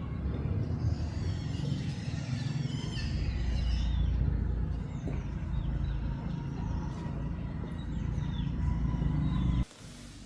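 Low, uneven rumbling noise with birds chirping over it; it cuts off abruptly near the end.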